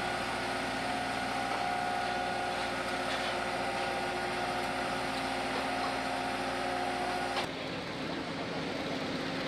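Aircraft engines running with a steady, even whine made of several held tones. About three-quarters of the way through, the whine breaks off suddenly into a plainer, noisier rush.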